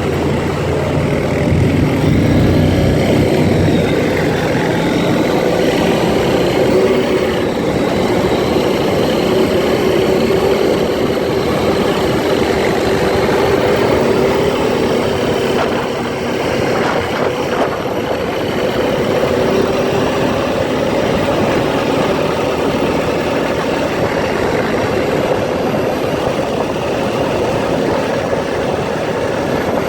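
ATV engine running steadily with a continuous drone whose pitch drifts only a little.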